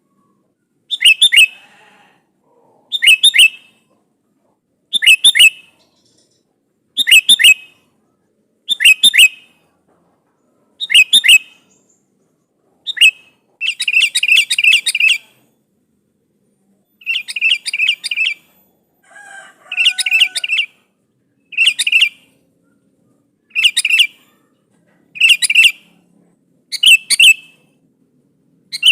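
Sooty-headed bulbul (kutilang) calling loudly to a rival in short, clear phrases of two or three falling notes, about one phrase every two seconds. It breaks into longer rapid chattering runs about halfway through.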